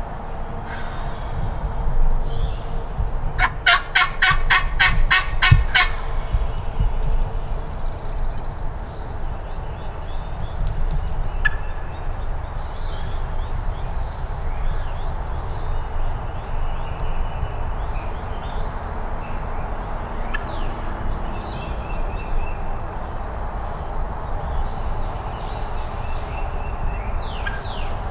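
Wild turkey yelping: a quick run of about nine sharp, evenly spaced notes a few seconds in.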